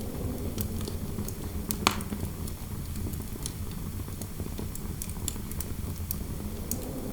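Fireplace crackling with scattered sharp pops, the loudest a little under two seconds in, over a steady low rumble of wind noise.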